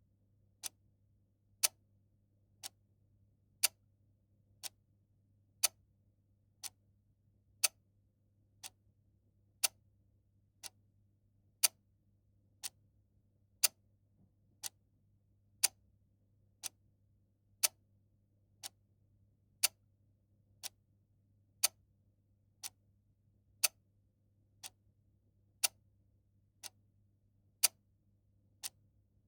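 Clock ticking steadily at one tick a second, the beats alternating louder and softer in a tick-tock pattern.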